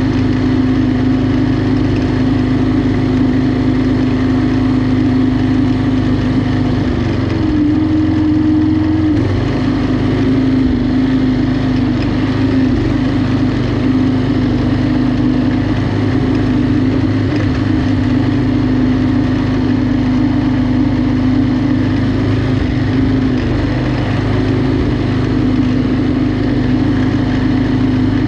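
Lawnmower engine running steadily under way, its pitch rising briefly about seven seconds in and then settling back.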